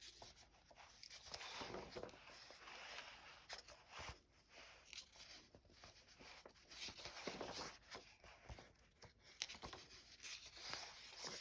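Faint rustling and light taps of paper as vintage paper doll books and cards are handled.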